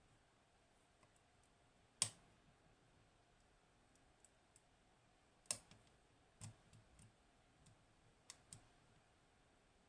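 Small metallic clicks of lock picking in a high-pin-count Hori Trident lock as the pick works its pins: one sharp click about two seconds in, another about five and a half seconds in, then a run of lighter clicks.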